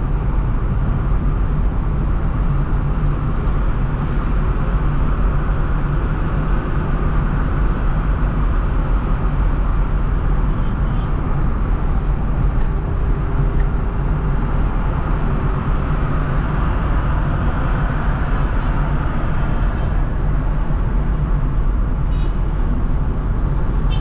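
Steady road and traffic noise from a car driving through city traffic, with a strong low rumble throughout.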